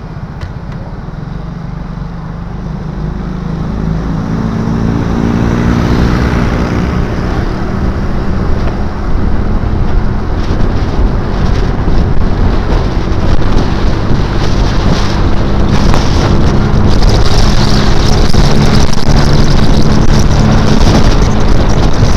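Motorcycle engine running under way, pulling up through the revs with rising pitch over the first several seconds and growing louder until it is very loud, over a steady low rumble.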